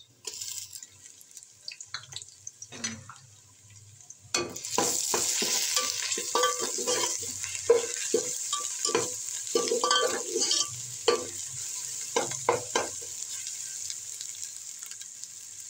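Ginger-garlic paste frying with browned onions in hot ghee, being stirred with a spoon. The pot is fairly quiet at first apart from a few clicks, then a loud sizzle rises suddenly about four seconds in and keeps on, with the spoon scraping and knocking against the pot throughout.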